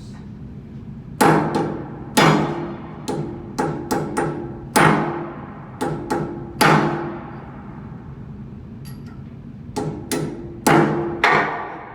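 Hammer blows on metal: about fifteen sharp, irregular strikes, each leaving a ringing tone. The strikes come in two groups, with a pause of about three seconds between them.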